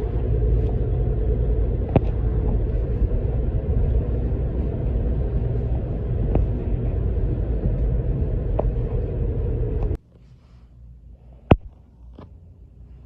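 Steady low rumble of a semi-truck's engine and road noise, cutting off suddenly about ten seconds in. A single sharp click follows in the quieter stretch after it.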